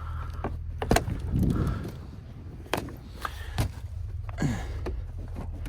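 Vehicle engine idling with a low, steady rumble, broken by several sharp metallic knocks and clunks, the first about a second in.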